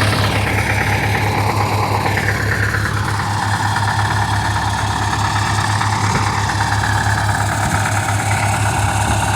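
Vehicle engine running steadily at idle, with a higher whine that slides down in pitch over the first few seconds and then holds steady.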